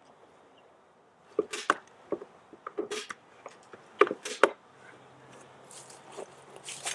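Stiff tar paper crackling and rustling in sharp bursts as it is handled and pressed around a beehive, with a faint steady low hum coming in about halfway.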